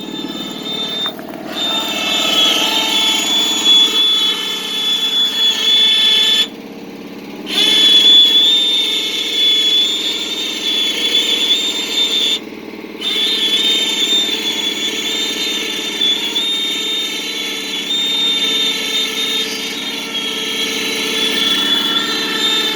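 Bale truck's engine running under load with a steady high-pitched whine while its hydraulics raise the bale. The whine cuts out briefly about seven seconds in and again near thirteen seconds.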